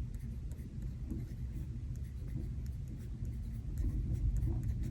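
Pen writing on paper, faint scratchy strokes, over a steady low rumble of thunderstorm ambience that swells a little about four seconds in.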